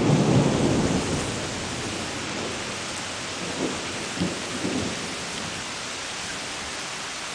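Thunder rumbling, dying away about a second in, then steady rain falling.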